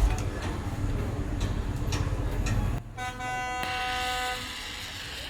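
A low rumble for almost three seconds, then a vehicle horn sounding once, a steady tone for about a second and a half.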